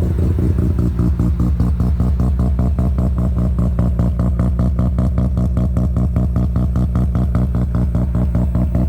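Mazda RX-7 FD3S's bridgeported twin-rotor engine idling through a Varrex remote-controlled exhaust muffler, with the rapid, even pulsing of a choppy bridgeport idle.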